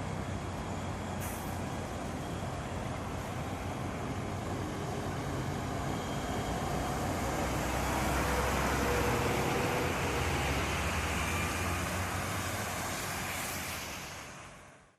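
Road traffic with a heavy vehicle running past. The sound swells louder about halfway through, then fades out near the end.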